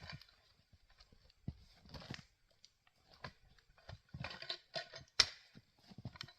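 Faint, irregular crunching, scraping and knocking of a peavey working a log over on the ground, with one sharp knock about five seconds in.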